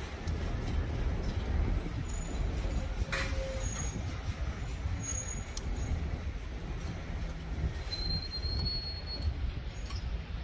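Wood fire burning hard inside a downdraft wood stove with its air intake opened wide: a steady low rumble with a couple of sharp crackles and brief thin high whistles.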